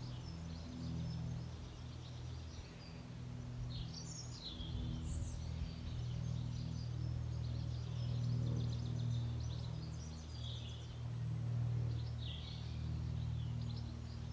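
Garden birds chirping and warbling in short scattered phrases over a low, steady drone.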